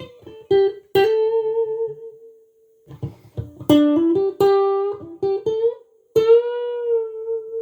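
Tomson Spirit Sounds Stratocaster-style electric guitar playing a slow single-note lead phrase. It pauses briefly partway through, then bends a note up and ends on a long held note with vibrato.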